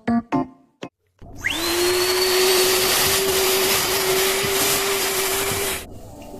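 A few short piano-like notes, then an electric motor appliance starts up with rushing air and a whine that climbs quickly to a steady pitch. It runs for about four seconds and cuts off suddenly near the end.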